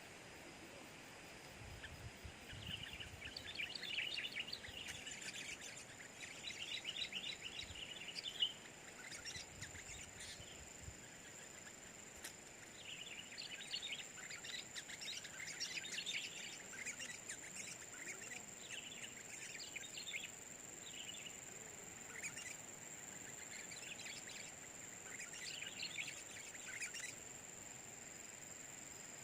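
Sooty-headed bulbul (kutilang) chirping and singing in repeated bursts of rapid notes, with short pauses between phrases, over a thin steady high-pitched tone.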